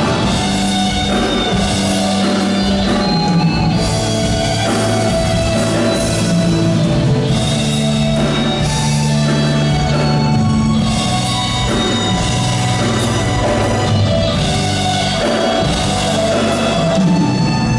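Live band playing an instrumental passage of a pop-rock song, with drums and held chords and no singing.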